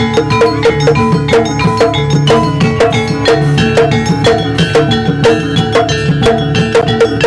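Jaranan dance music: a gamelan-style ensemble of drums and tuned metal percussion playing a fast, steady, dense rhythm.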